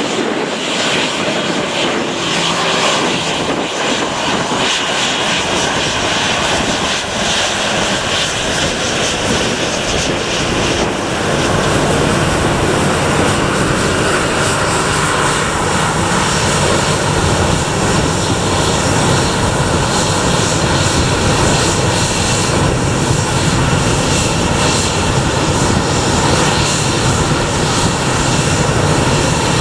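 A departing airliner's engines running loud and steady at close range, with a deeper rumble building in about eleven seconds in.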